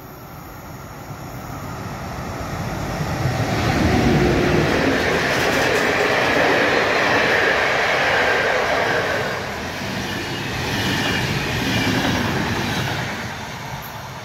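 A train passing close by on the rails: the rumble and wheel noise build up over the first four seconds, stay loud for about eight seconds, then fade near the end.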